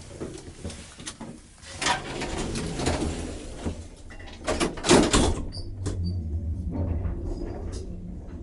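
Hotel baggage lift clattering, with a run of loud knocks, the loudest about five seconds in. From about six seconds in, a steady low hum as the lift machinery runs.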